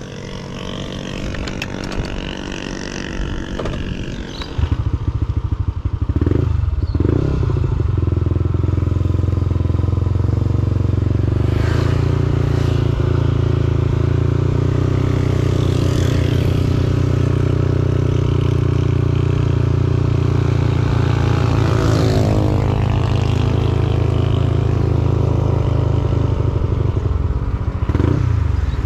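Yamaha Aerox 155 scooter's single-cylinder engine under way, on board while riding. It picks up on throttle about four to five seconds in, then runs steadily and loudly, with its pitch shifting a few times.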